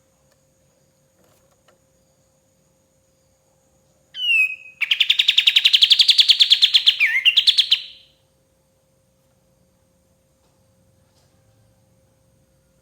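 A kapas tembak, a bulbul, sings one phrase about four seconds in. It gives a couple of quick whistled notes, then a fast run of repeated chattering notes for about three seconds, ending on a dipping note.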